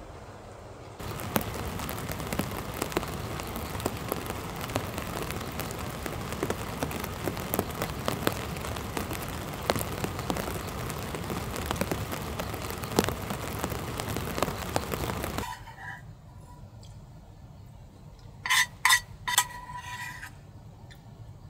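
Rain pattering on the light truck's body, a dense hiss full of small drop ticks that starts abruptly about a second in and cuts off suddenly after about fourteen seconds. Near the end come a few short high beeps or chirps, then a brief held tone.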